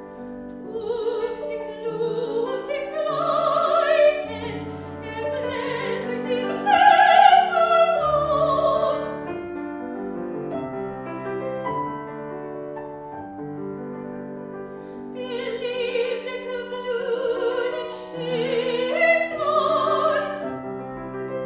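Classical singing with vibrato, accompanied by piano: two sung phrases with a short piano-only passage between them.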